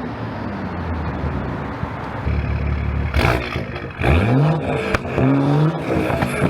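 BMW 340i's B58 turbocharged inline-six through a single-exit exhaust, accelerating: a steady low drone, then from about four seconds in the pitch climbs in two rising sweeps, with a sharp pop near five seconds.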